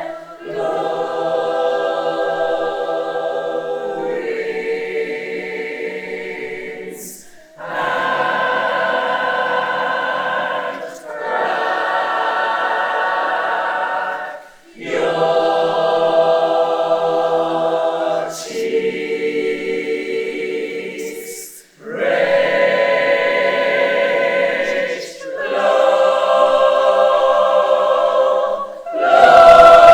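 Choir singing held chords in phrases of a few seconds each, with short breaks between the phrases.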